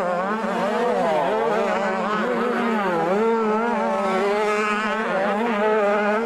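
Several 85cc two-stroke motocross bikes running together, their engine notes rising and falling as the riders rev and shift.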